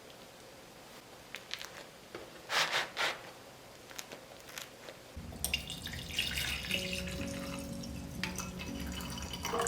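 Kitchen sink sounds: scattered light taps and drips, and two short bursts of water near the middle. Soft background music comes in about halfway through.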